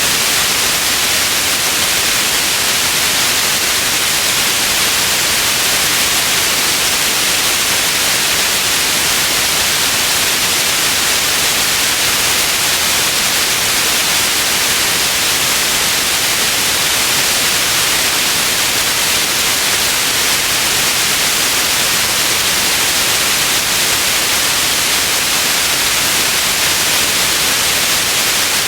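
Steady white noise, an even hiss with most of its energy in the upper range, unchanging throughout.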